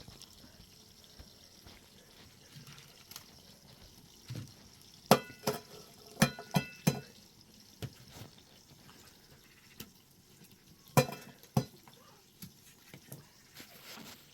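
Sharp clinks and knocks, several ringing briefly: a cluster of about five about five seconds in and two more near eleven seconds, over faint liquid sounds.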